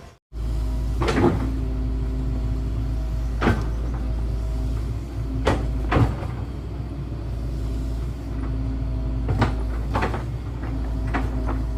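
Excavator's diesel engine running steadily, with sharp metallic clanks now and then from the working machine.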